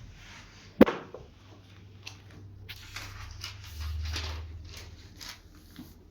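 A single sharp knock, followed by a run of brief rustling and scraping handling noises.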